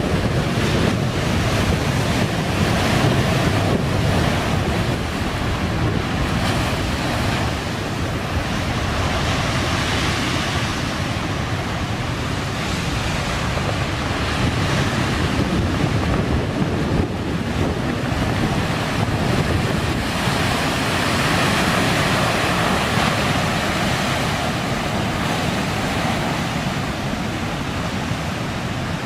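Heavy typhoon surf pounding the shore in a steady roar that swells and eases, with strong wind buffeting the microphone.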